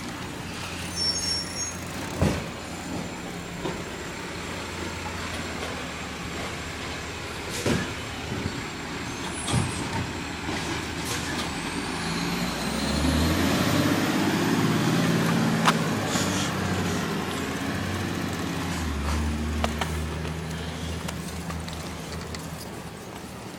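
Garbage truck's engine running, revving up about halfway through and again briefly near the end, with several sharp clanks and knocks and a high whine rising just before the first rev.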